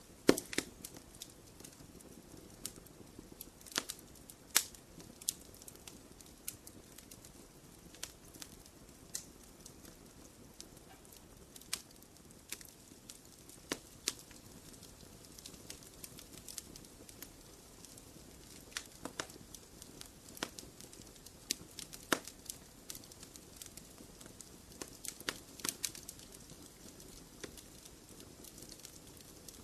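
Wood fire in a fireplace crackling: irregular snaps and pops, a few of them sharply louder, over a low steady hiss of the burning.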